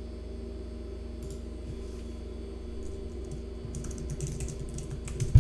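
Computer keyboard typing: scattered key clicks, with a quick run of keystrokes about four seconds in and a heavier thump near the end, over a steady electrical hum.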